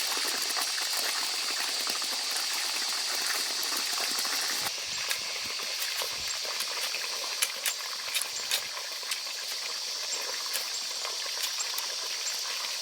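Running water flowing steadily. About a third of the way in it becomes a little quieter, and scattered sharp splashing clicks follow.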